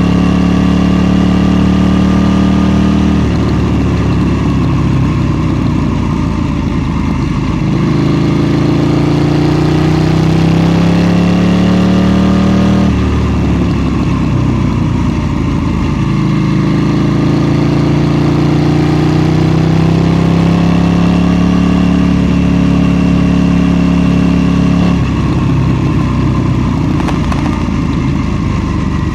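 KTM 790 Duke's parallel-twin engine under way. Twice the revs climb steadily under throttle, then it drops off throttle into a rougher, burbling stretch before pulling again.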